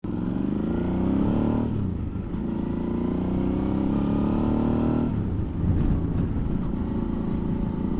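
Suzuki V-Strom motorcycle engine accelerating through the gears. Its pitch rises, drops at a gear change just under two seconds in, climbs again, and drops at another shift about five seconds in.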